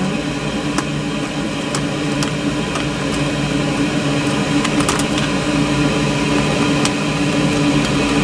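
Steady mechanical hum, with a few sharp clicks from hand tools working the clamps on the engine's exhaust hoses.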